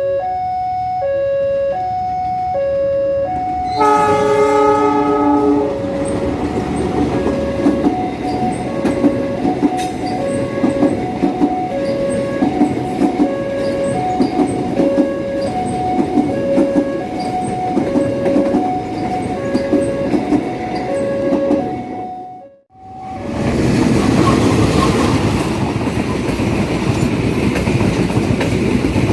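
A level-crossing alarm sounds two alternating tones, about one a second, as a train approaches. The locomotive's horn blows one chord for about two seconds, then the train passes with a rhythmic clickety-clack of wheels over the rail joints under the continuing alarm. After an abrupt cut near the end, a train runs close by, loud and noisy, without the alarm.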